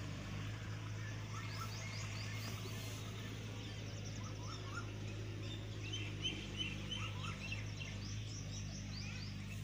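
Small birds chirping repeatedly in the background over a steady low hum.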